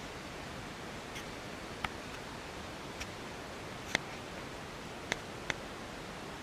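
Steady rolling noise of a moving railway carriage, with about six sharp clicks at uneven spacing, rattles of the carriage or its wheels on the track.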